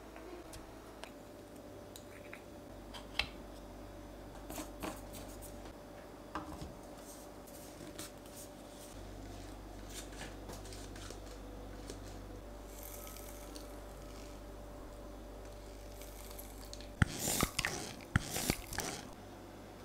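Scattered light taps and clicks of things being handled in a kitchen, then about two seconds of loud crinkling or tearing strokes near the end.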